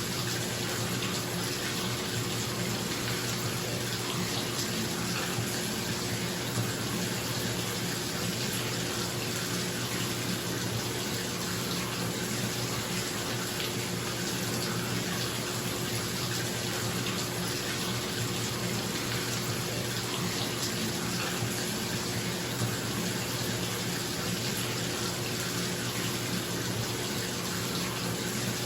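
Bathtub faucet running steadily into the tub, a constant rush of water, with a bathroom exhaust fan humming underneath.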